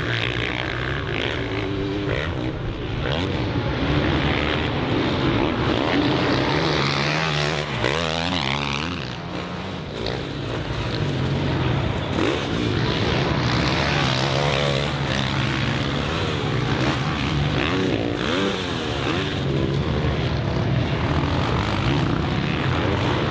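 Motocross bike engine running hard on the race track, revs rising and falling as the rider works the throttle and shifts, with a short let-off about nine seconds in.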